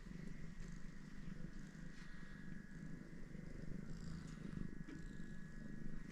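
A domestic cat purring steadily, with a faint steady high tone behind it.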